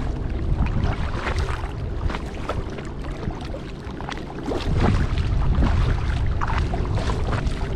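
Kayak paddle strokes splashing and dripping in lake water, as short irregular splashes, with a low wind rumble on the microphone; the splashing grows louder about halfway through.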